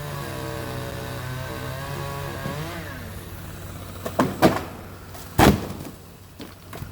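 A motor running with a steady pitch that sags slightly and then rises before fading, followed by three loud knocks in the back half.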